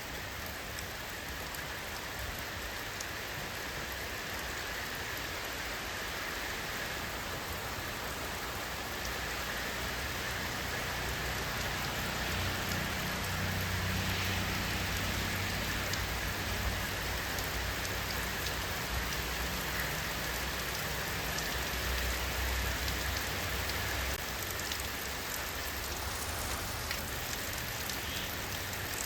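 Steady rain falling in an even hiss of drops. A low rumble swells under it through the middle and fades near the end.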